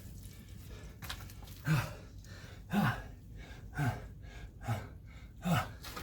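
A man breathing hard from exertion after a set of kettlebell jump squats: five heavy voiced exhales about a second apart, each falling in pitch.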